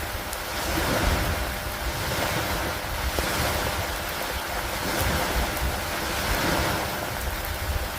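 Rain and gusty wind over lake water lapping at a wooden dock: a steady hiss of rain with a low rumble underneath, swelling and easing about every two seconds like waves washing in.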